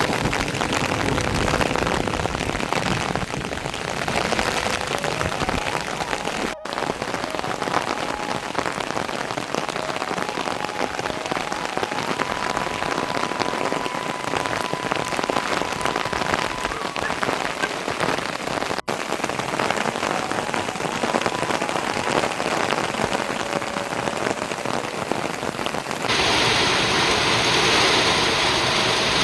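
Steady rain falling on surfaces, an even hiss with brief breaks at edits; near the end it turns to a louder, brighter hiss.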